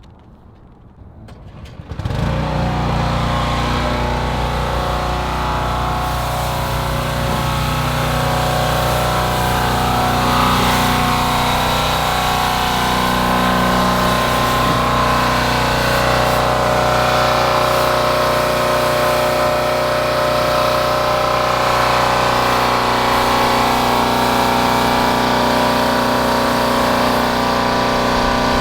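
A vehicle engine running steadily, starting suddenly about two seconds in.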